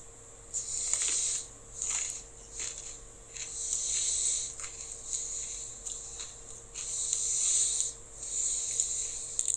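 Heavy breathing through the nose close to the microphone: loud hissy breaths of about a second each, one after another, with a few faint clicks in between, over a faint steady hum.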